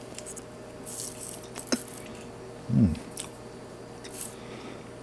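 A person chewing a mouthful of soft baked donut with coconut glaze, with faint scattered mouth noises and a short low hum of the voice near the middle.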